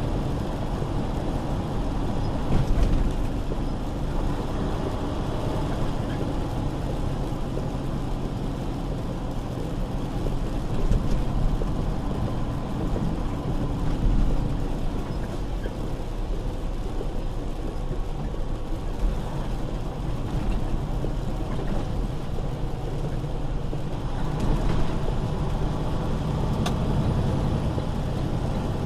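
Semi truck on the road: a steady low engine hum and road noise, with a few brief louder bumps.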